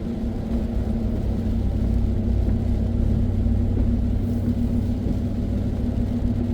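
Steady engine and road rumble heard from inside a moving vehicle's cabin, with a constant low hum.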